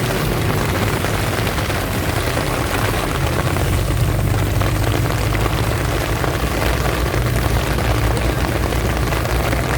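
Heavy rain falling steadily, under a constant low rumble of a vehicle moving along a wet road.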